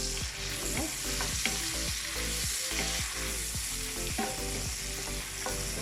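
Sliced onions, peppers, cherry tomatoes and garlic sizzling in a frying pan as they are stirred. The spoon makes short knocks against the pan every half second or so.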